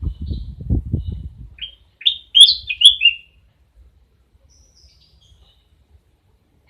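An owl giving a quick run of about six short, high, falling chirps, the loudest sound, about two seconds in. Before them, in the first second and a half, come low rustling and thumps.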